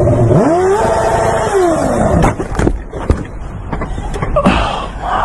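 A vehicle engine revs up, holds briefly and drops back, followed by several sharp knocks.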